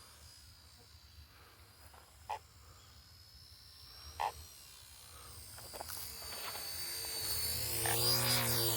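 Electric RC helicopter's motor and rotor whine growing from about six seconds in and peaking near the end as it passes close, the pitch sweeping as it goes by. Two short calls are heard earlier.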